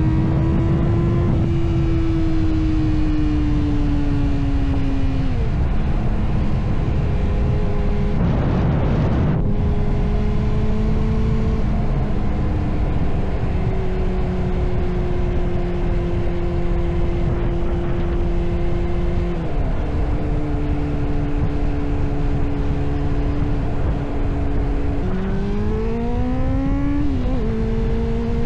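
Honda CB400SF inline-four motorcycle engine running under way at fairly steady revs, its pitch stepping down at each of several gear shifts. About three seconds before the end it revs up quickly, then drops again at another shift. A heavy low rush of wind and road noise lies underneath, with a brief surge of noise about eight seconds in.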